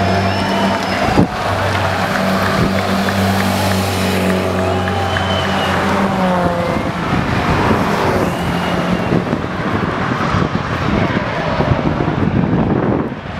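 Car engines running and revving at a drag strip, their pitch rising and falling several times. A steady low drone stops about six seconds in, leaving a dense mix of engine and track noise.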